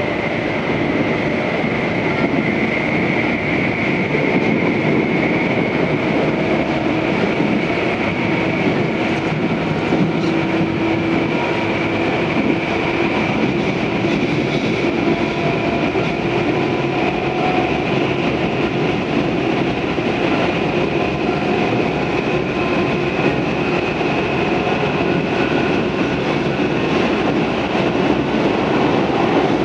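Tobu 634 series electric railcar running at speed, heard from inside the passenger car: a continuous rumble of wheels on rail with a faint, steady high whine over it.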